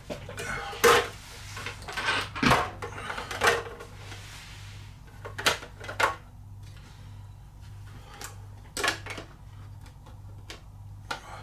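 Irregular clicks and knocks of small hard plastic and metal RC crawler parts being handled on a workbench, with a steady low electrical hum underneath. The knocks cluster in the first few seconds, and two more come about nine seconds in.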